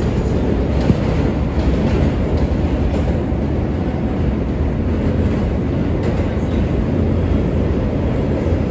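R143 subway train running between stations: a steady, loud rumble of steel wheels on rail, with a sharp knock about a second in.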